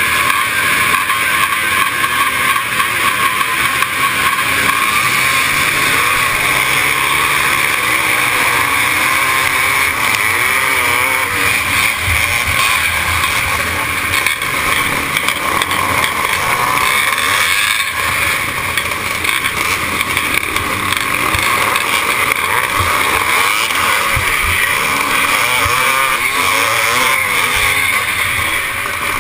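Twinshock-era motocross motorcycle engines running hard, the revs rising and falling continuously.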